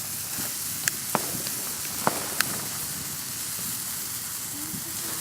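Morning Glory Garden firework burning, its sparks spraying with a steady hiss. Four sharp crackles come in the first two and a half seconds.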